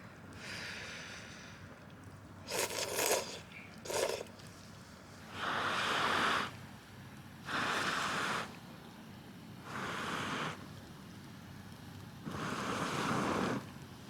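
A series of scraping sounds: two short scrapes, then four separate longer rasping strokes of about a second each.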